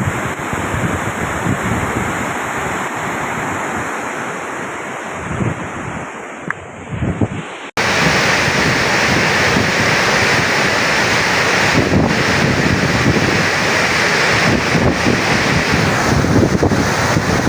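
Water rushing through the Tarbela Dam service spillway, with wind buffeting the microphone. A little under halfway through it cuts abruptly to a louder, steadier rush.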